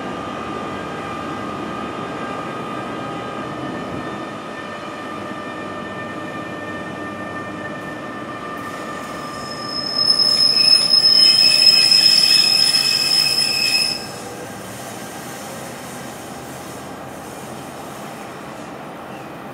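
Electric passenger train running through the station, with steady high tones over the rumble of the train; about ten seconds in a loud, shrill wheel squeal rises and lasts about four seconds before cutting off suddenly.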